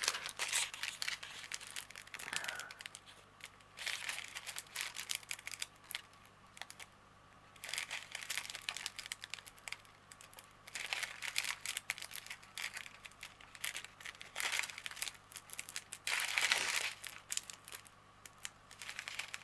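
Small plastic packets of diamond painting drills crinkling as they are handled and turned over, in irregular bunches of rustles and light clicks.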